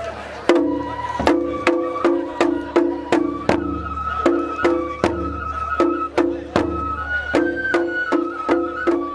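Japanese festival music (matsuri-bayashi): a flute melody over evenly paced percussion strikes, about two and a half a second.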